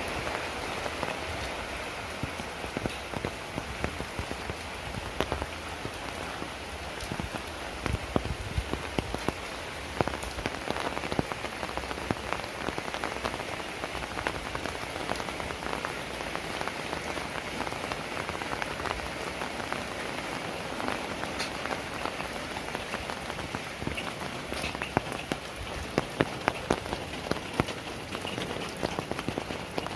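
Heavy rain falling steadily, with many sharp, close drop hits cutting through the downpour, more of them near the end.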